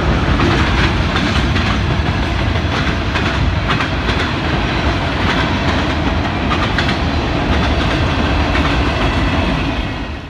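Freight train of tank cars and boxcars rolling past: a steady rumble of steel wheels on rail with repeated clicks as the wheels cross rail joints. The sound cuts off suddenly near the end.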